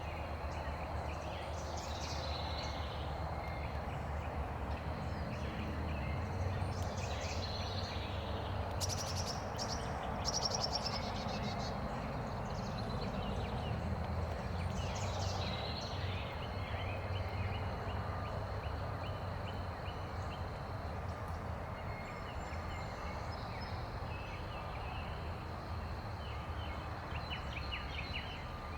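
Small birds calling and chirping now and then, with a fast rattling trill about nine to ten seconds in, over a steady outdoor background rush and low hum.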